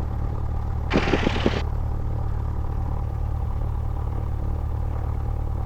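Cessna 172's engine idling with a steady low drone. A brief hiss with a few clicks comes about a second in.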